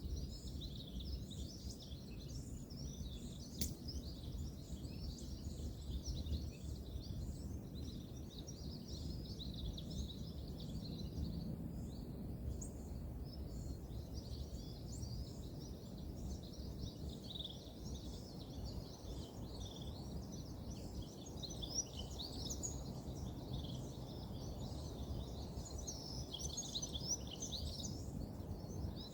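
Many small birds chirping and calling without pause over a steady low rumble of distant road traffic, with a single sharp click a few seconds in.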